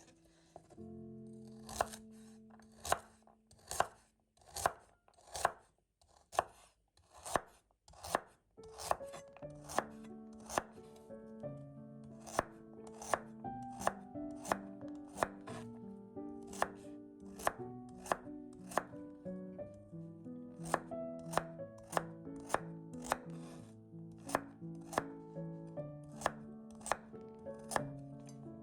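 Kitchen knife chopping vegetables on a cutting board, with even strokes about two a second, over background music with held notes.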